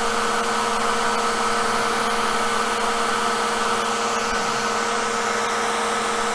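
Hair dryer blowing steadily, drying a coat of water-based paint, over a steady machine hum from the running workshop equipment.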